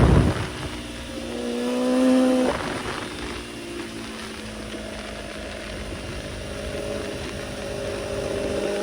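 Kawasaki ZX-10R inline-four sport-bike engine under way: the throttle closes at the start, a short surge about two seconds in cuts off, then the engine runs steadily at lighter throttle, rising slightly near the end.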